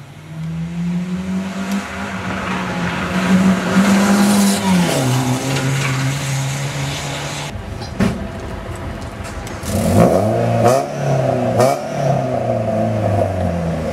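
Rally car engine under hard throttle, holding a steady pitch and then dropping about five seconds in, as at a gear change or a lift off the throttle. Later an engine is revved up and down several times.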